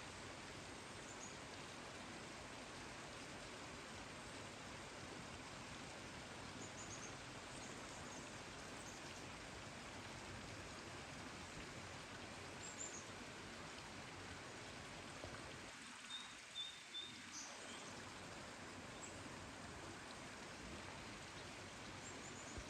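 Steady rain falling, a soft even hiss, with faint high bird chirps now and then and a short run of chirps about two-thirds of the way through.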